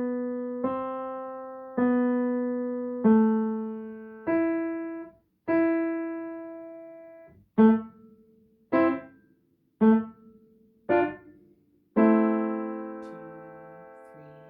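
Piano playing a slow beginner melody one note at a time: six held single notes about a second apart, then four short detached staccato notes, then a chord struck about twelve seconds in and left ringing as it fades.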